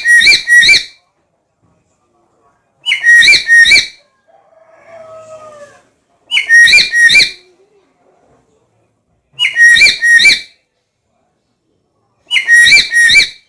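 Black-capped lory calling: a loud, shrill call of three or four quick notes, repeated five times about every three seconds. A fainter, lower call sounds between the second and third.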